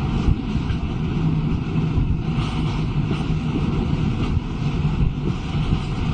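Steady low rumbling noise with a faint low hum running through it.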